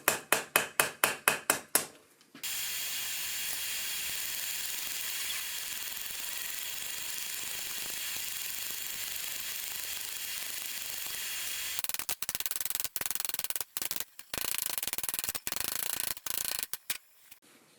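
Hammer striking hot steel on an anvil in a quick, even run of several blows a second, texturing a forged shaft, which stops about two seconds in. A steady high hiss follows, and from about twelve seconds in it keeps breaking off and starting again.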